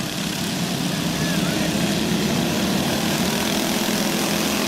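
Several go-kart engines running together in a pack on a dirt track, a steady drone with no clear rises or falls.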